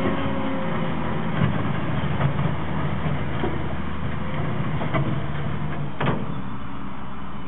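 Heavy diesel machinery engine running steadily while working to pull out a tree stump, with a few sharp knocks along the way.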